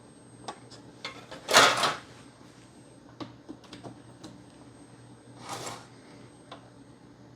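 Scattered clicks and light knocks from handling the opened Xbox One S and its parts, with a short scraping rustle about a second and a half in and another near six seconds.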